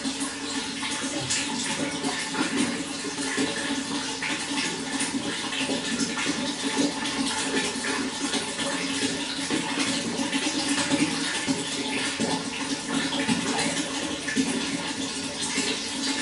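Running water flowing steadily, a continuous rush dotted with many small splashes.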